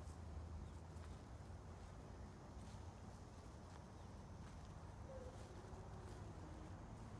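Faint ambient background: a steady low rumble with scattered faint clicks and a brief faint chirp about five seconds in.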